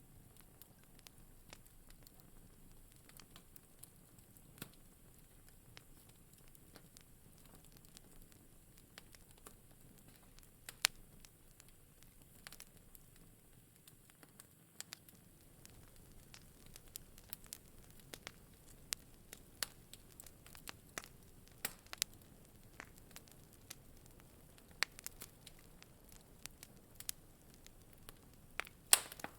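Wood fire crackling in a fireplace: scattered sharp pops and snaps over a soft hiss. The pops are sparse at first and come more often in the second half, with a louder snap about eleven seconds in and the loudest near the end.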